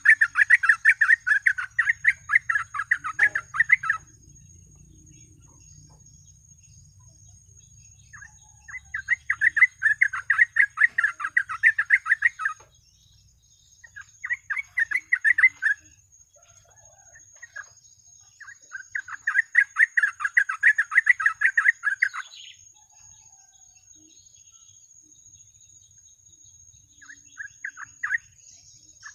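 Yellow-vented bulbul (trucukan) singing: five phrases of fast, bubbly chattering notes, four of them a few seconds long and a short one near the end, with pauses of a few seconds between. A faint steady high whine runs underneath.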